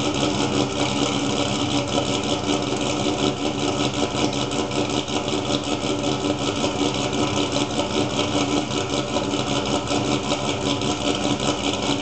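A 2004 Pontiac GTO's LS1 5.7-litre V8, fitted with an HPE C aftermarket camshaft, Kooks long-tube headers and an LM1 cat-back exhaust, idling at the dual tailpipes.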